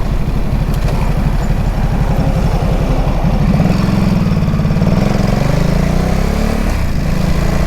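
Motorcycle engine running under way; its pitch rises about three seconds in, then eases off and holds steady, over a low rumble.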